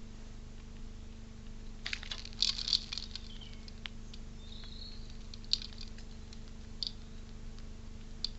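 Scattered sharp taps and clicks at a bird feeder, a quick cluster about two seconds in and single ones later, with a brief faint bird chirp in the middle. A steady low electrical hum runs underneath.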